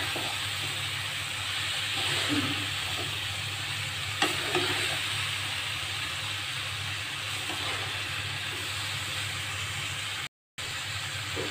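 Chicken, bitter gourd and masala sizzling in hot oil in a wok while being stirred, with one sharp clink of the metal spatula against the pan about four seconds in. The sound cuts out briefly near the end.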